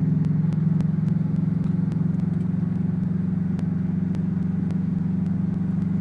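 2005 Subaru Impreza WRX's turbocharged flat-four running through an Invidia N1 race exhaust with a catless downpipe, heard from inside the car with the windows down. It is cruising at a steady pitch, giving a low, even exhaust drone.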